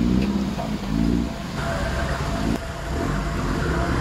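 Off-road Jeep's engine running steadily with a low rumble, with indistinct voices in the first second or so.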